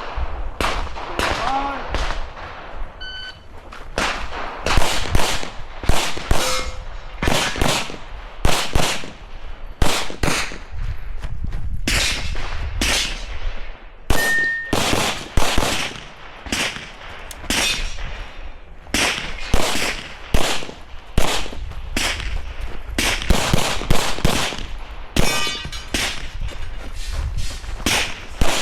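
Airsoft pistol firing a long string of shots at an uneven pace, often in quick pairs, with metallic clangs and short rings from steel targets being hit.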